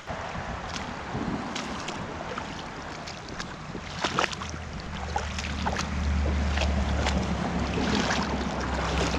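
Flowing creek water with splashes and knocks as someone wades across the stream. A low rumble of wind on the microphone comes in about five seconds in.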